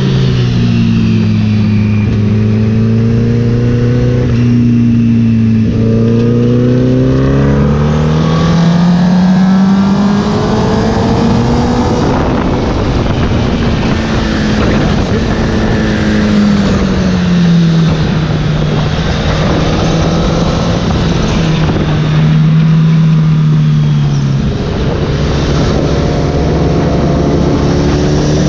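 Honda sportbike engine heard onboard at track speed, its pitch climbing slowly as it accelerates and dropping back as it slows for corners, several times over, with wind noise throughout.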